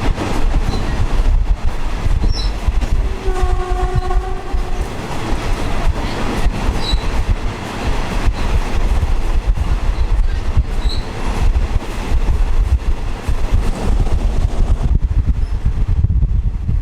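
Train running along the track with a steady heavy rumble and repeated clacks of the wheels over the rails. The locomotive's horn sounds once, about three seconds in, for a second and a half.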